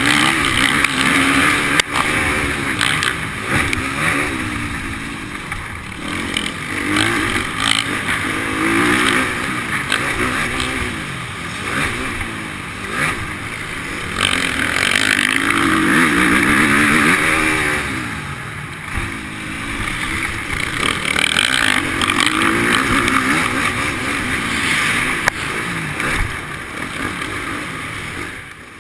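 Motocross motorcycle engines on a dirt track, revving up and falling back over and over, each rise and drop lasting a second or two.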